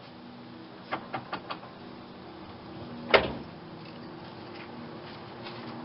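Camaro Z28's L98 350 V8 idling steadily through a Flowmaster Super 10 muffler. A few light clicks come about a second in, and a single sharp knock about three seconds in.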